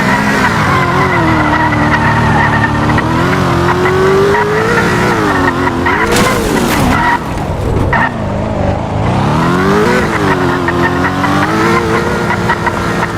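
A drifting car's engine revving up and down repeatedly, its pitch dropping low twice in the middle, with the tyres squealing.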